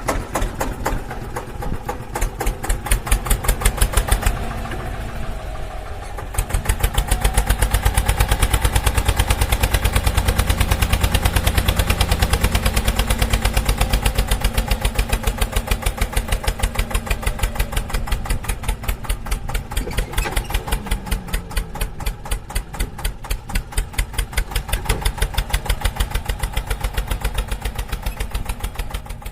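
Tractor engine chugging with a fast, even beat of exhaust pulses. It eases off between about four and six seconds in, then picks up again.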